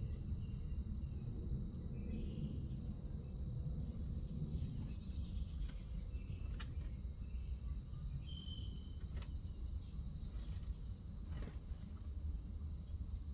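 Crickets trilling steadily in a high, even drone over a low background rumble, with a few short bird chirps and some faint clicks.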